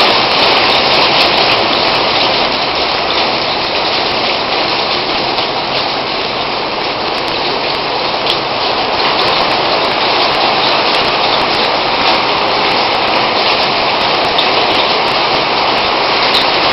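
Heavy storm rain pouring steadily and loudly, with many sharp ticks of individual impacts scattered through the hiss.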